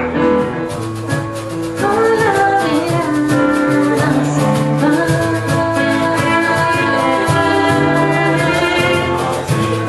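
Live acoustic folk song: guitar with a steady strummed pulse, other instruments and a singing voice.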